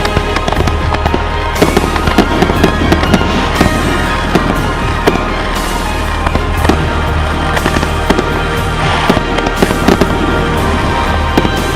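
Fireworks going off in quick succession, a string of sharp bangs and pops every second or so, over music playing steadily underneath.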